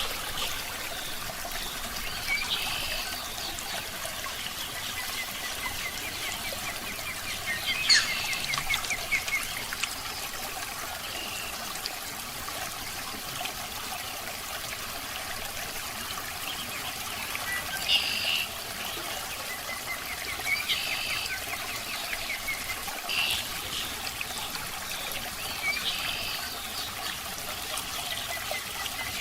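Aquarium water trickling and splashing steadily, with a bird chirping in short bursts every few seconds.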